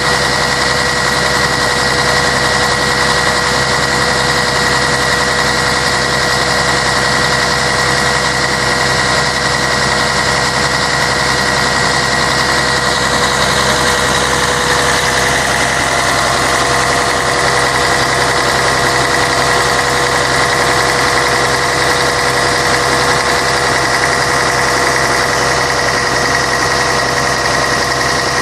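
Scania K113 bus's six-cylinder diesel engine running steadily, with a steady high whine over the engine note.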